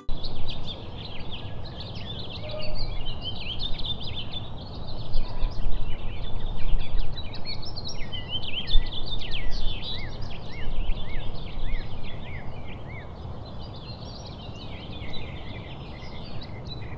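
A chorus of many small birds chirping rapidly over a steady low rumble of outdoor background noise.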